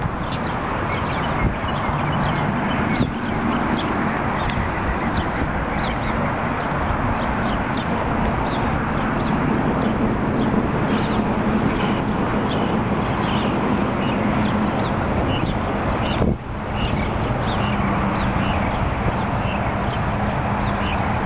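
Steady low rumble of a freight train's diesel locomotive, with many short high bird chirps repeating over it.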